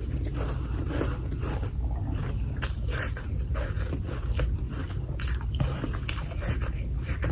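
A person biting and chewing chunks of humidifier freezer frost: crisp, irregular crunches several times a second over a steady low hum.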